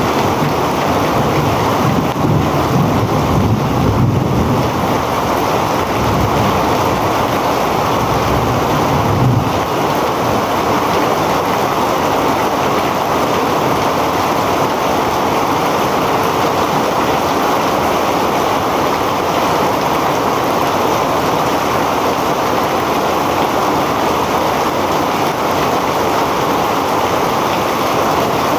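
Heavy rain pouring down steadily in a rainstorm, with gusts of wind rumbling on the microphone through roughly the first nine seconds.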